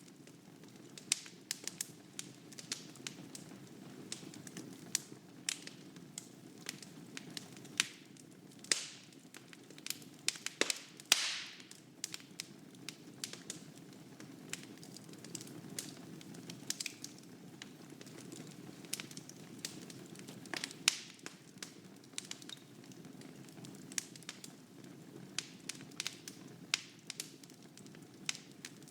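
Wood fire burning in a fireplace: irregular sharp crackles and pops over a low, steady rumble of flames. A brief hissing flare comes about nine seconds in, and a louder one about eleven seconds in.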